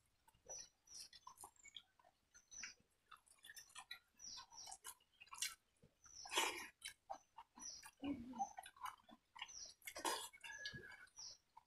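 Two people eating watered rice and freshwater snail curry by hand, chewing and smacking their lips in a run of short, irregular clicks and smacks. Louder bursts come about six and a half and ten seconds in.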